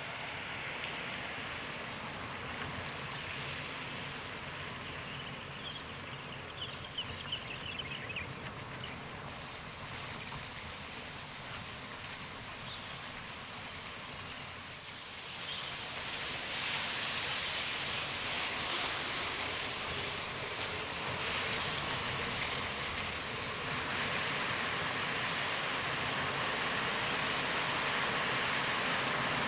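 Car driving through heavy rain: a steady rush of rain and tyres on the wet road. It grows louder and hissier about halfway through and stays that way, with a few light ticks of drops near the start.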